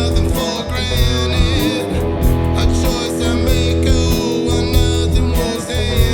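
Americana blues band music, with plucked guitar over a steady bass and percussion beat.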